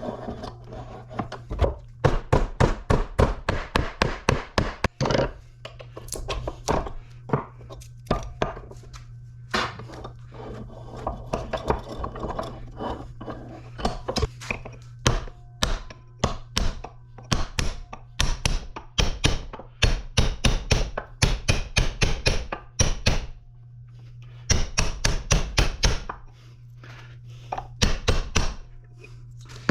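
Hammer blows on a small electric motor, in quick runs of several strikes a second with short pauses, banging the copper windings out of the stator. A steady low hum runs underneath.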